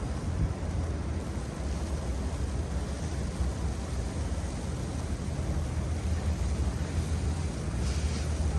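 Snowstorm wind buffeting the microphone: an uneven low rumble over a steady hiss.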